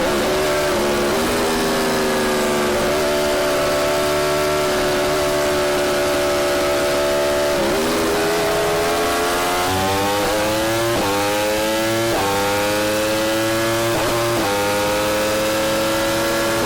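Yamaha R1's inline-four engine through an Akrapovic exhaust, running loud and steady. Its note sinks slowly for the first several seconds and dips briefly around the middle. After that it climbs in several short pulls, each broken off by a brief drop.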